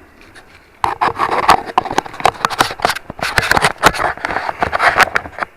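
Handling noise close to the microphone as the camera is set on its stand: loud scraping and clattering with many sharp knocks, starting about a second in and cutting off abruptly near the end.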